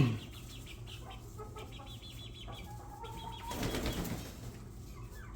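A thump right at the start, then soft chirping calls from the coop's poultry and a brief burst of wing flapping about three and a half seconds in.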